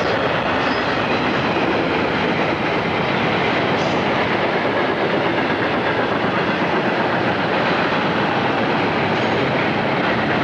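A train's railroad cars rolling past on the track, a steady, unbroken noise of wheels on rail.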